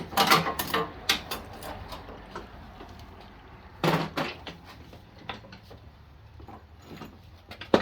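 Scattered metal clanks and knocks of tools and parts being handled, with a cluster near the start and one louder knock about four seconds in.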